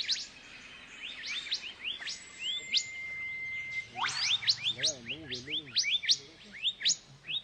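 Forest birds chirping: many short, quickly rising calls, several a second. A steady high whistle is held for about two seconds near the middle.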